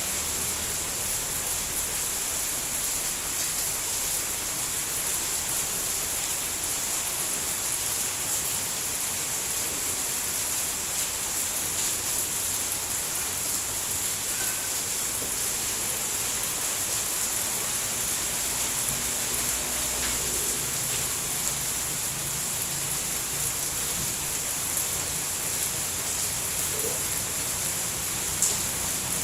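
Steady, even rain, with one sharper tap standing out near the end.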